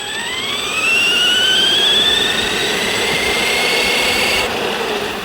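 Arrma Granite 3S RC monster truck's brushless electric motor whining as it accelerates. The pitch climbs over the first two seconds, holds high and steady, then cuts off suddenly near the end.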